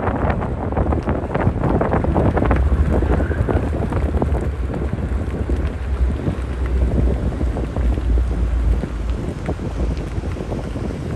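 Heavy wind buffeting on the microphone: a low, heaving rumble with crackle that swells and falls.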